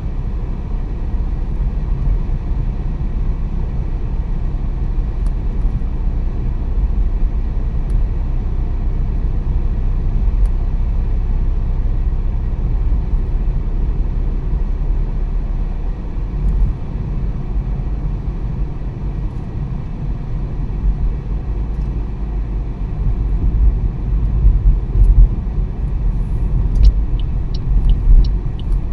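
Car driving on the road: a steady, low rumble of engine and tyre noise. Near the end comes a run of quick, evenly spaced ticks, about two a second.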